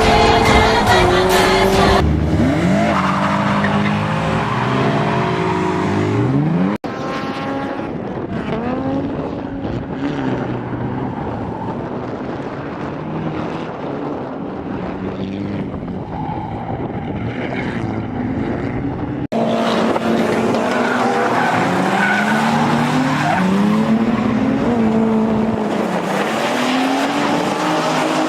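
Drift cars sliding through a corner: engines revving up and down at high rpm while the rear tyres squeal and skid. The sound changes abruptly about 2, 7 and 19 seconds in, as one run gives way to the next.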